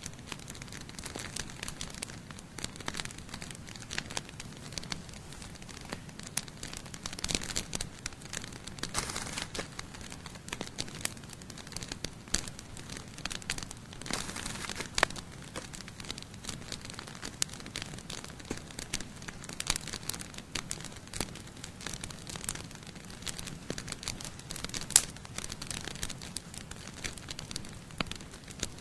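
Campfire burning, crackling with irregular sharp pops over a steady hiss; one pop near the end is louder than the rest.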